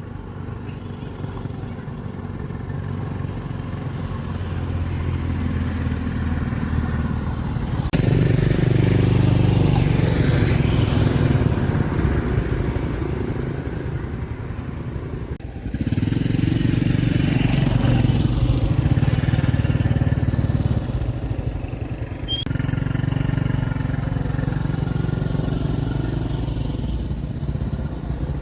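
An engine running steadily, with its level jumping up abruptly several times.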